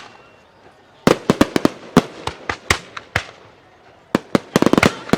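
Aerial fireworks bursting in quick volleys of sharp bangs and cracks. After a quieter first second, the reports come in clusters, with a dense run near the end.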